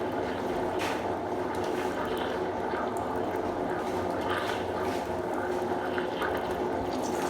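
Water rushing steadily through a Consul Super Cargo 8 kg top-loading washing machine during its wash cycle, with a faint steady hum.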